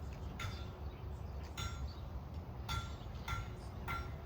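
Five short, light clinks, each with a brief ring, spaced roughly half a second to a second apart over a low steady rumble.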